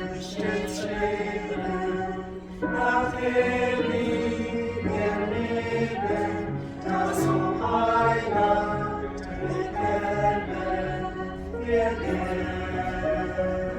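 Choir singing in several voices with long held notes, over a low sustained accompanying line.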